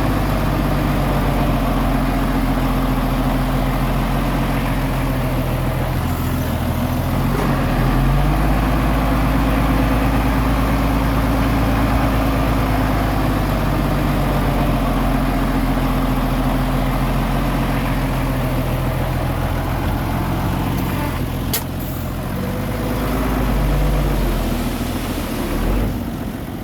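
Diesel engine of a small Komatsu bulldozer running steadily while pushing soil, its note dropping and picking up again a couple of times. A single sharp click about three-quarters of the way through.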